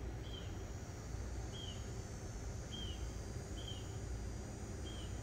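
A bird chirping five times, roughly a second apart, each a short call that dips slightly in pitch, over a steady low background rumble.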